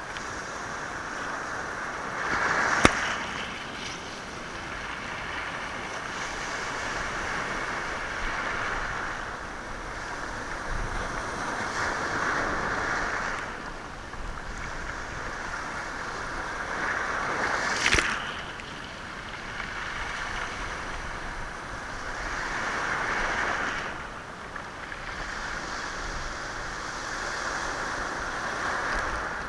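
Sea waves washing in and out over a rocky shore, swelling and falling back every few seconds. Two sharp clicks stand out, one about three seconds in and one about eighteen seconds in.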